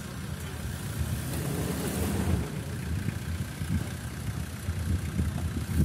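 Off-road SUV engine running with a low rumble, growing somewhat louder around two seconds in.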